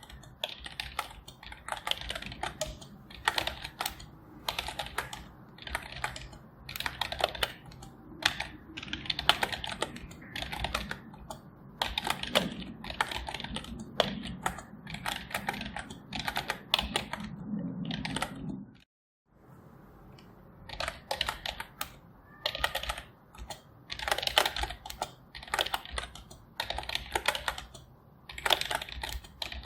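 Typing on a computer keyboard: steady runs of keystrokes broken by short pauses. The sound drops out completely for a moment about two-thirds of the way through, then the typing resumes.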